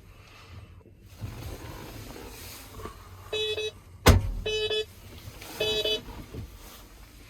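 Three short electronic beeps, about a second apart, from a tractor cab's warning buzzer or control panel. A single sharp click or knock comes just before the second beep and is the loudest sound.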